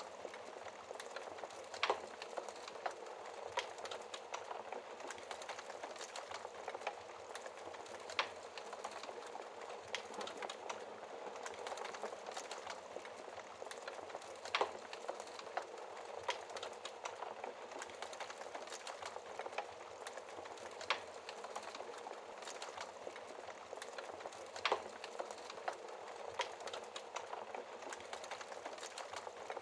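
Wood fire burning steadily with a soft hiss and frequent crackles and pops, a few of them sharper than the rest.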